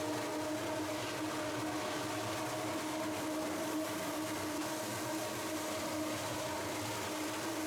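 Electric floor sander running steadily, a constant motor hum with a steady whine over it, sanding the wooden floor.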